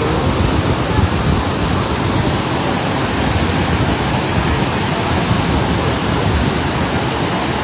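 Floodwater rushing past in a fast, heavy flow, a steady even rush of water noise.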